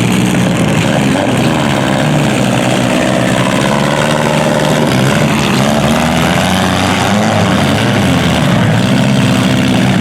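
Several demolition derby car engines running at once, their pitches rising and falling as they rev.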